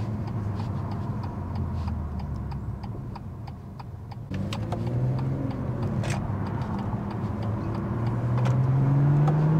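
BMW M240i's turbocharged 3.0-litre straight-six with a Scorpion OPF/resonator-delete exhaust, heard from the cabin with the windows partly down. The engine note first eases off, then about four seconds in it grows louder and climbs steadily as the car accelerates away. A turn signal ticks evenly through the first half.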